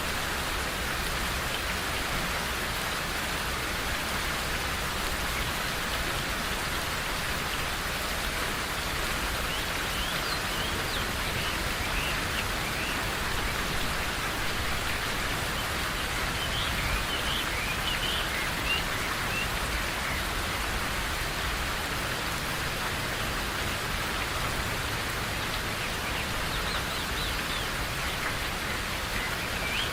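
Steady rain falling in a forest, an even hiss of drops, with a few short high bird chirps now and then.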